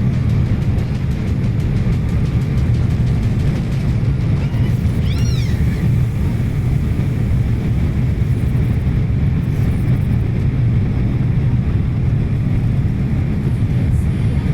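Steady low rumble of a jet airliner's cabin noise in flight. About five seconds in, a brief high squeal rises and falls in pitch once.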